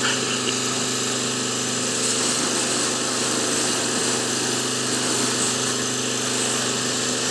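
Pressure washer running steadily, a constant engine hum under a spray hiss.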